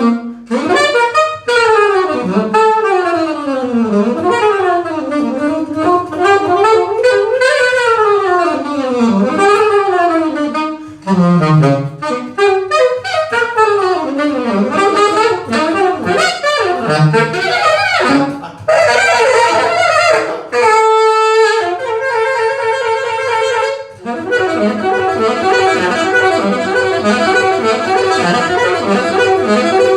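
Jazz band playing an instrumental break. A lead wind instrument plays fast runs sweeping up and down, then moves to longer held notes. Near the end the held notes sit over a steady pulsing accompaniment.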